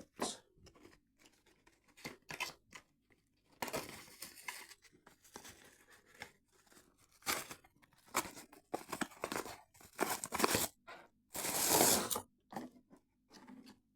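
Product packaging being opened and handled: tearing and crinkling in a series of irregular bursts with small clicks, the longest and loudest about twelve seconds in.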